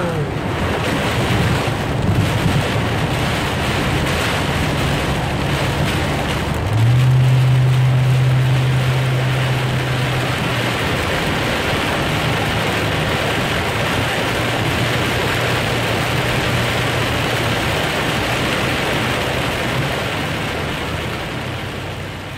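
Heavy rain pelting the windshield and body of a moving vehicle in a rainstorm, a dense steady rush of water. Under it runs a low hum from the vehicle, which grows louder about seven seconds in for some four seconds. The sound fades out at the very end.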